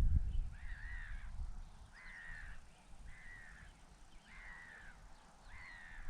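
A bird giving a series of harsh, arched calls, one about every second, five in all. A low rumble is loudest at the very start and fades away within the first second.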